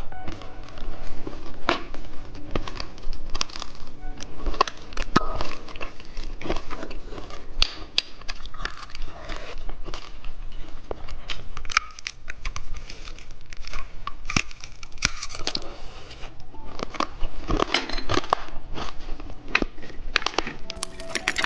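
Plastic candy packaging crinkling and tearing in a dense run of irregular crackles as candy is unwrapped.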